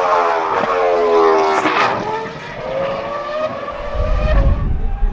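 Jaguar R5 Formula 1 car's 3.0-litre Cosworth CR-6 V10 running at high revs, its note falling for about the first two seconds, then climbing again. A low rumble joins near the end.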